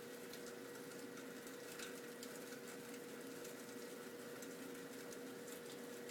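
Heavy rain falling: a steady hiss with many small ticks of drops striking, over a faint steady hum.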